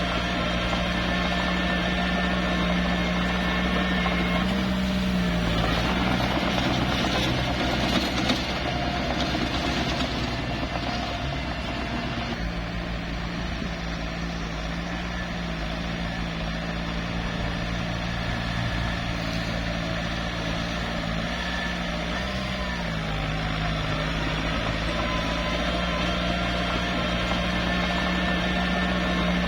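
Small crawler bulldozer's diesel engine running steadily, its pitch dipping briefly about five seconds in and again about twenty-two seconds in, with a rougher, noisier stretch from about six to twelve seconds in.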